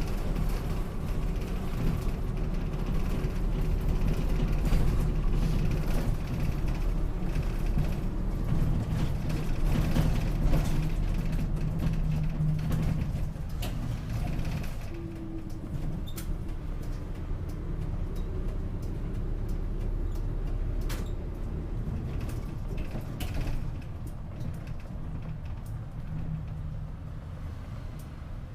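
Gifu Bus city bus driving between stops, heard from inside the cabin: a steady engine drone with road noise. The engine is louder up to about thirteen seconds in, then eases off and stays quieter, with a few small clicks and rattles from the cabin.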